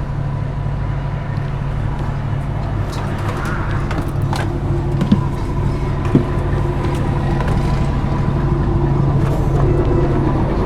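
Bus engine running steadily at idle, a continuous low hum, with two brief sharp clicks about five and six seconds in.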